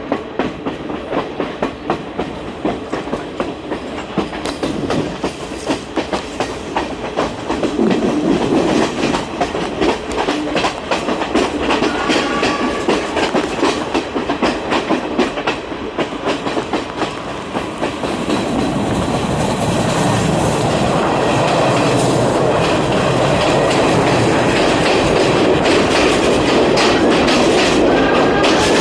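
Railway carriage running along the track: wheels clattering over rail joints over a steady rumble, which grows louder and denser about two-thirds of the way through.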